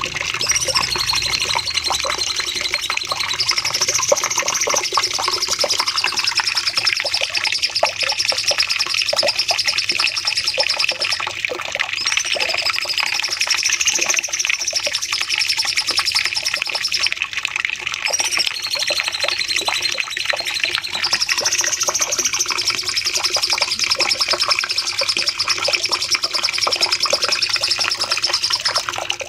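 Cucak cungkok songbird singing a long, unbroken run of rapid chattering song, with a rising-and-falling whistled phrase coming back every several seconds.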